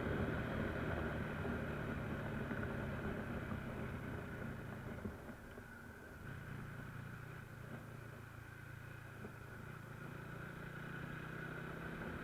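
Motorcycle engine running while riding. Its steady note eases off and drops in level about five seconds in, then holds steady again.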